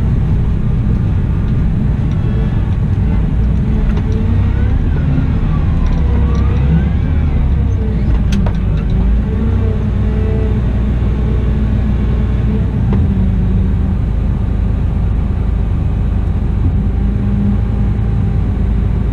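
Cat 972M XE wheel loader at work, its engine and drivetrain running with a steady low drone. A few seconds in, a fainter whine rises and falls in pitch, and about eight seconds in there is a short click.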